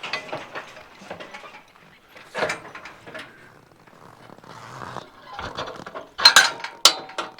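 Metal harness and hitching hardware rattling and clinking, with two loud sharp metal clanks about six and seven seconds in, the second ringing briefly.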